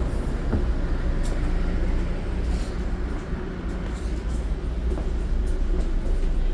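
Steady low hum aboard a stationary commuter train waiting to depart, heard from inside the passenger car, with a few faint clicks.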